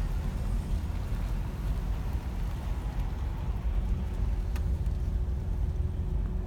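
2007 Ford Crown Victoria on the move: a steady low rumble of road and running gear, with no speech. A faint steady hum comes in about halfway through, and a single light tick sounds near the four-and-a-half-second mark.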